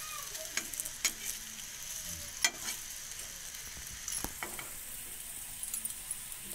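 Rice-flour-coated raw banana slices sizzling in a little oil on a hot iron tawa over a low flame, a steady hiss. A few sharp clicks of a steel spatula against the griddle break through it, the loudest about two and a half seconds in.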